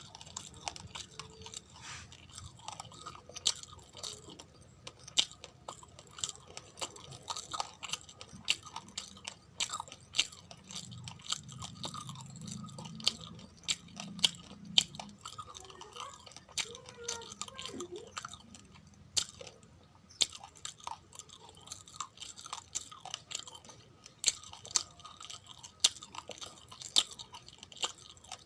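A person chewing raw, uncooked rice grains: a dense run of sharp, irregular crunches and cracks as the hard grains break between the teeth.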